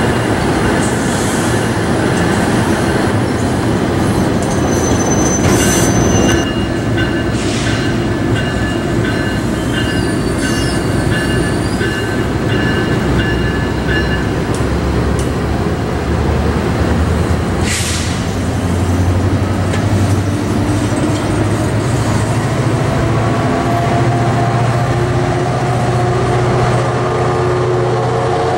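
New Jersey Transit commuter train of bilevel coaches rolling past with a steady rail rumble, a thin high wheel squeal through the first half and a few sharp clanks. In the last third a locomotive's deep hum rises slowly in pitch.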